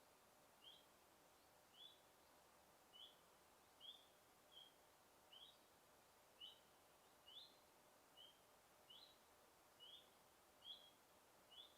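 A bird repeating a short, high, upward-flicking chirp about once a second, over a faint forest background hiss.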